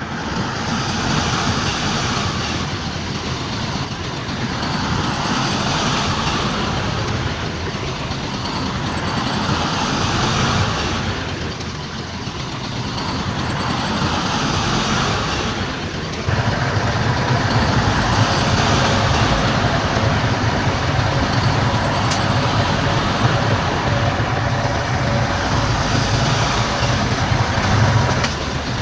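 Diesel engines of heavy earthmoving machinery running under load, swelling and easing every few seconds. A little past halfway the sound shifts abruptly to a louder, steadier running with a deeper rumble.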